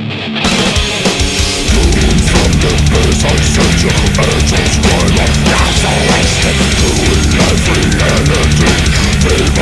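Death/thrash metal recording: distorted electric guitar joined by drums and cymbals about half a second in, with the full band and heavy low end driving from about two seconds in.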